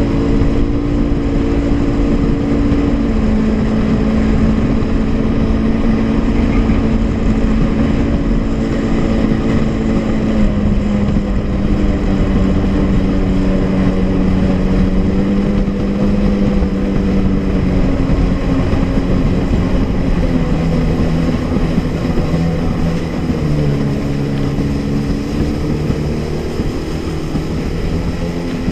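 Honda jet ski engine running steadily at speed, its pitch stepping down a little several times, over a constant rushing noise.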